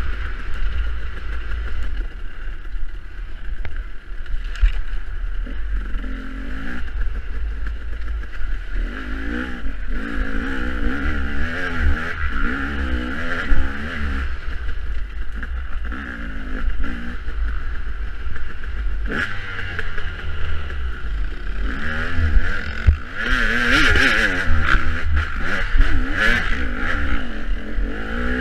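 Dirt bike engine under hard riding, the revs rising and falling over and over as the throttle is worked.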